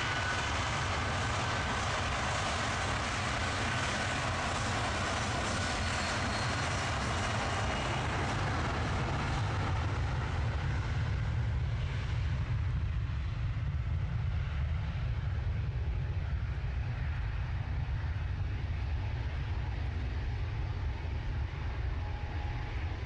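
Jet airliner's engines at take-off power as it takes off: a steady low rumble with a faint whine that falls slightly in pitch early on, and the higher hiss dying away about halfway through as the aircraft moves off.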